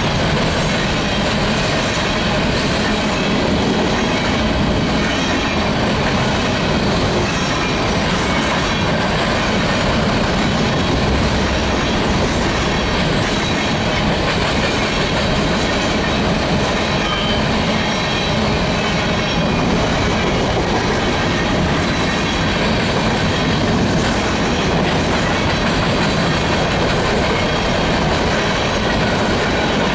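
Grain train's covered hopper cars rolling past, wheels clacking over the rail joints in a loud, steady rumble.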